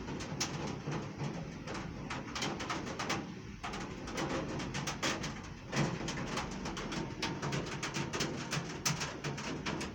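Heavy rain falling, with a dense patter of sharp drop hits on a nearby hard surface.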